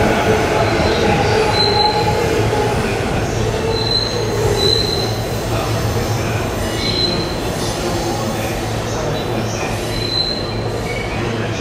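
A Keihin-Tohoku Line electric commuter train, a JR East E233 series EMU, rumbles steadily as it runs through curved track. Its wheels give several short, high squeals against the rails. The running noise eases slightly as the train moves away.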